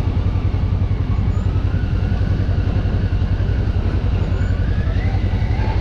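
Off-road vehicle's engine running steadily on the trail, a loud low rumble with a fast, even pulse.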